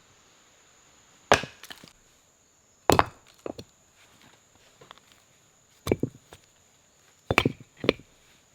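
Wood being chopped with a blade: four hard, sharp strikes a second and a half to three seconds apart, with a few lighter knocks in between.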